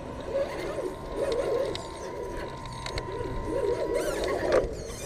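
Electric drivetrain of a radio-controlled rock crawler whining steadily as it crawls over rock, its pitch rising briefly about four seconds in as the throttle opens.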